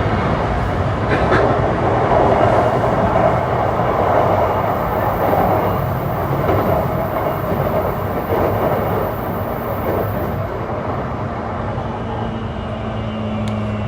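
Running sound of a JR East E235 series 1000 electric multiple unit at speed, heard from inside the car: a steady rumble and rail noise from the wheels and track. A low hum and a faint whine come in near the end.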